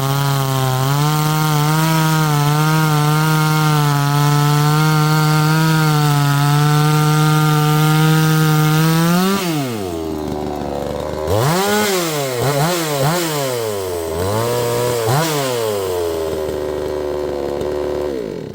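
A 62cc two-stroke chainsaw held at full throttle while cutting wood, its pitch dipping a little under load. About nine seconds in it drops to idle, is blipped up several times, then is shut off just before the end.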